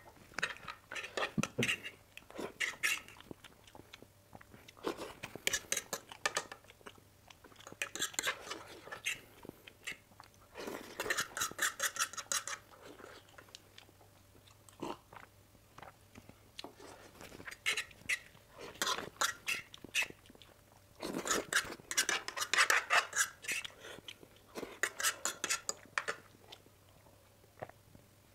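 Close-miked chewing of masala Maggi instant noodles, with a fork-spoon scraping and clinking on a plate, coming in short bursts every few seconds with quiet gaps between.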